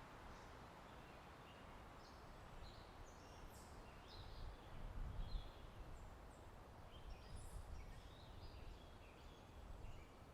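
Faint birdsong: many short, high chirps and twitters from several birds, over a low rumble of wind that swells briefly in the middle.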